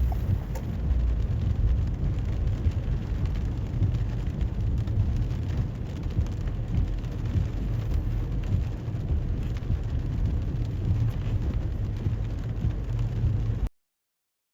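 Car driving on wet roads in rain: a steady low road and engine rumble with a hiss of rain and tyre spray and faint scattered ticks of drops. The sound cuts off suddenly near the end.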